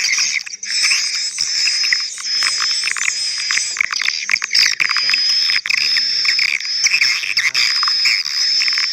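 Recorded swiftlet lure sounds playing back: the 'call' and 'roosting' tracks of edible-nest swiftlet twittering layered together, a dense, continuous high chirping with rapid clicks.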